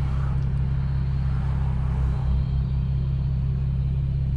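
A car cruising at a steady speed: a constant low drone of engine and road noise, with no revving.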